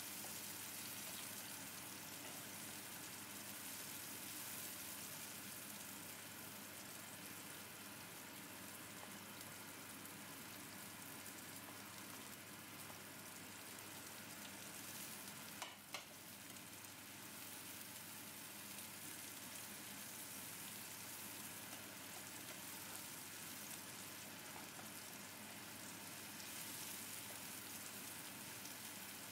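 Chopped garlic and chillies sizzling steadily in hot oil in a nonstick frying pan while being stirred with a spatula. Two quick knocks about halfway through.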